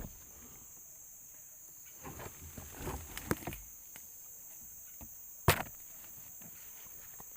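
Footsteps and rustling through forest undergrowth, with one sharp snap about five and a half seconds in, over a steady high-pitched insect drone.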